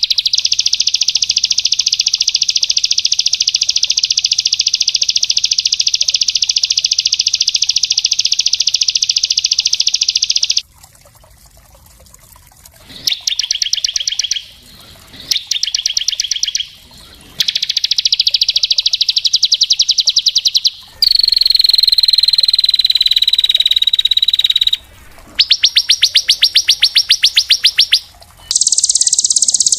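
A small songbird singing very rapid, dense trills in the fast, close-packed bursts bird keepers call 'tembakan speed rapat'. The first trill runs unbroken for about ten seconds. It is followed by shorter trills with brief gaps, a long falling note, and more trills, the last one higher-pitched.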